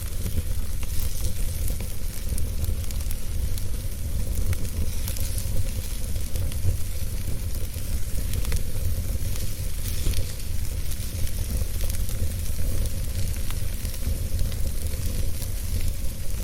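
Wood fire burning in a fireplace: a steady low rumble of flame with faint, scattered small crackles throughout.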